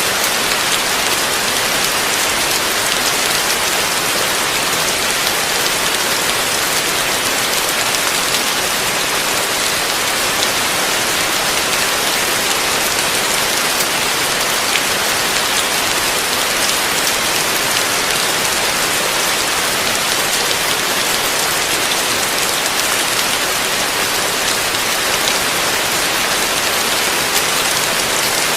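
Heavy rain falling steadily, a dense even hiss with many small drop impacts and no thunder.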